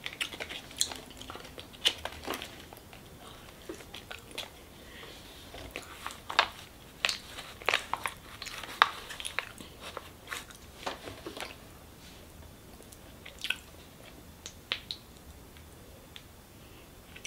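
Close-up chewing and biting of sticky sweets: scattered short wet clicks and smacks, thickest in the middle and sparser near the end.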